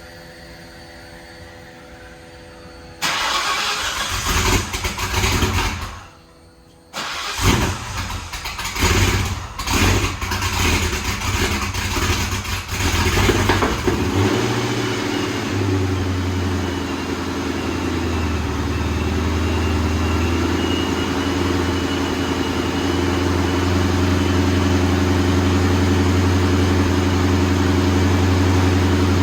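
2003 Mustang GT's cammed, supercharged 4.6 two-valve V8, with long-tube headers and a Borla ATAK cat-back, cold-starting: it fires about three seconds in, dies out briefly, then restarts and is held up with uneven throttle blips before settling into a steady idle. It is hard to start and has to be babied to idle because the tune needs adjusting.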